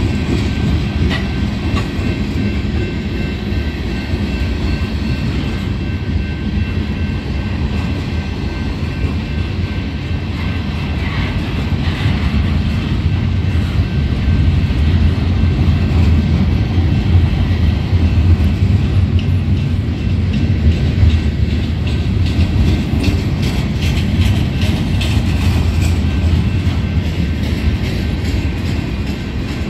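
Freight cars rolling past: a steady low rumble of steel wheels on rail, with clicking as the wheels cross rail joints, the clicks coming more often in the second half.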